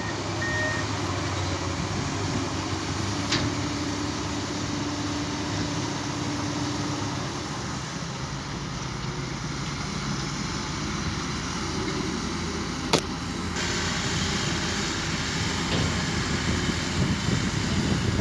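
Engine of a heavy construction vehicle running steadily. A reversing alarm beeps a few times and stops about a second in, and there is a single sharp click about two-thirds of the way through.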